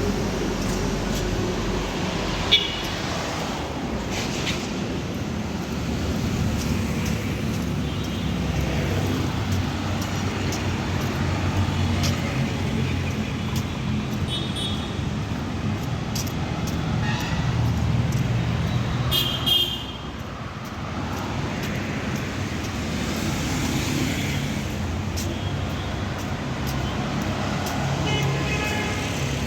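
Steady roadside traffic from passing cars and buses, with several short horn toots, the loudest about two and a half seconds in and another near the twenty-second mark.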